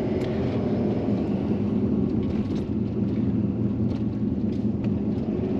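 Tow truck engine running steadily, heard from inside the cab as a low, even hum.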